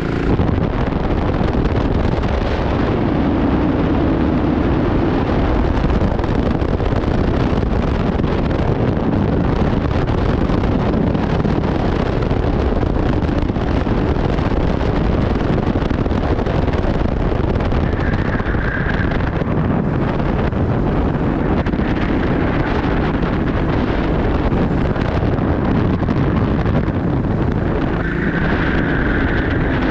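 Go-kart engine running at racing speed, with heavy wind noise on the microphone. A brief high-pitched squeal comes twice, about two-thirds of the way in and again near the end.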